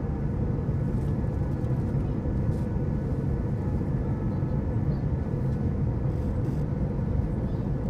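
Steady engine rumble of a Boeing 737-800 heard inside the passenger cabin, even and unchanging, with a faint steady hum above it.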